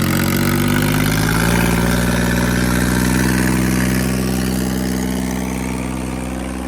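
Tractor diesel engine running hard under the load of a tug-of-war pull. Its pitch sags a little in the first second or so, then holds steady while the sound slowly fades.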